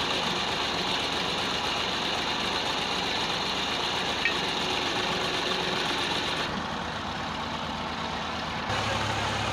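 Tractor engine running steadily while it powers a clay brick-making machine through its rear wheel. The sound shifts abruptly twice, about two-thirds of the way in and near the end.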